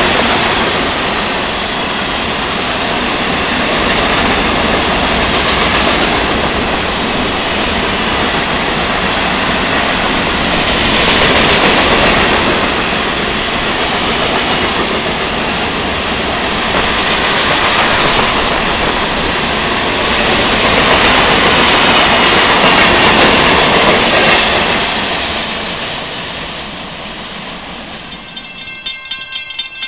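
Open coal hopper cars of a long freight train rolling past close by: a steady, loud rumble of wheels on the rails that swells and eases, then fades near the end as the cars draw away. A repeated ringing tone comes in at the very end.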